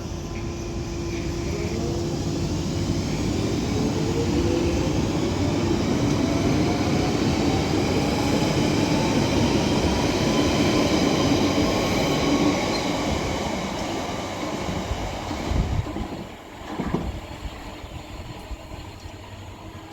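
A train accelerating away along the platform, its motor whine rising steadily in pitch as it gathers speed, then fading as it leaves. Two short bumps come near the end.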